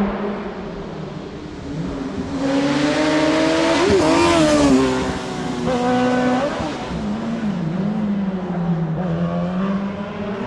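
Hillclimb race car engine under hard acceleration, passing close by. It is loudest and climbing in pitch about four to five seconds in, drops in pitch at a shift about seven seconds in, then pulls away up the course.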